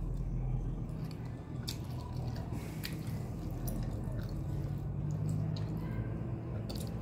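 Close-up mouth sounds of people chewing soft steamed vegetable momos (dumplings): scattered wet clicks and smacks over a steady low hum.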